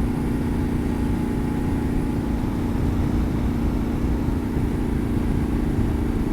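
Yamaha Ténéré 700's parallel-twin engine running at a steady speed under way, with a fluttering wind rumble over the microphone.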